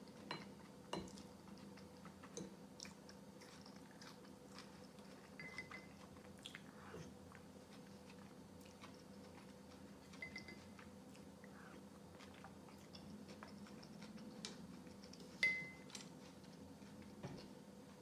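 Quiet chewing of cold beet soup and boiled egg, with a spoon clicking against a ceramic soup bowl several times; the loudest click, late on, rings briefly.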